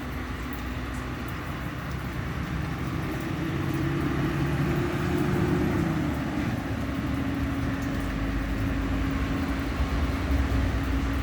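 Vehicle engine running steadily under a haze of road noise, its low hum growing louder and shifting in pitch a few seconds in, then settling into one steady drone.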